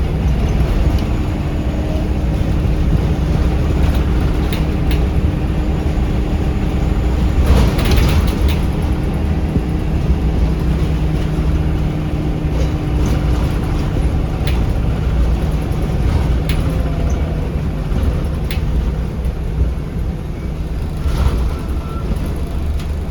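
Inside a moving Scania L94UB bus: its five-cylinder diesel engine drones steadily under a low road rumble, with scattered short rattles and clicks from the body.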